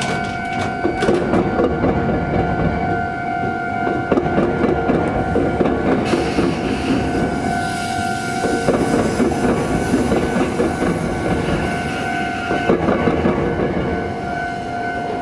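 Suburban electric train rolling across a right-angle rail crossing with the tram line, its wheels clattering over the crossing rails, with a level crossing alarm ringing as a steady two-pitch tone. The clatter ends about thirteen seconds in.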